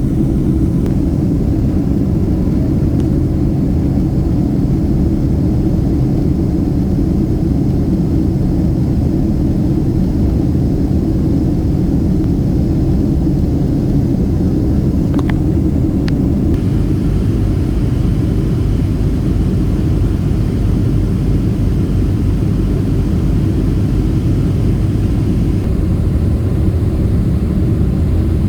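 Steady low roar of engines and rushing air heard inside the cabin of a jet airliner on its approach to land.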